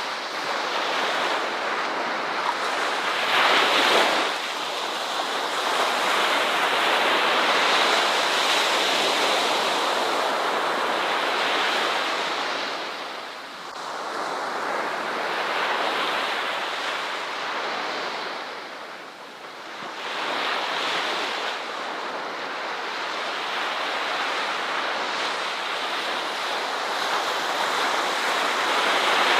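Ocean surf: waves breaking and washing up a shore in a continuous rush that swells and ebbs. There is a louder surge about four seconds in, and two brief lulls near the middle.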